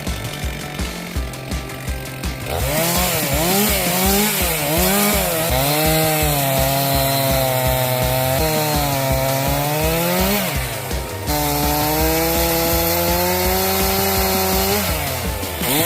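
Chainsaw cutting firewood, its engine pitch rising and falling as it loads in the cut and frees, with background music and a steady beat underneath.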